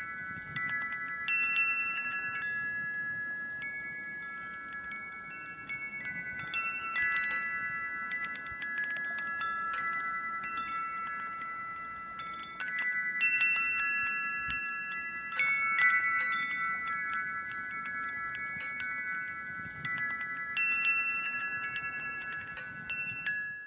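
Wind chimes ringing: several tuned tones struck at random, overlapping and sustaining, until the sound cuts off suddenly at the end.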